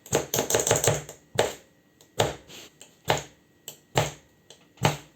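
Ferrocerium fire-starter rod scraped with a flat steel striker to throw sparks onto tinder: a quick flurry of about six short scrapes in the first second, then single strokes about once a second.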